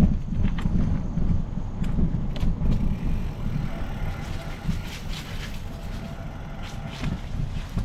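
Wind noise buffeting the microphone on a moving Specialized Epic Pro mountain bike, with a few sharp clicks and rattles from the bike.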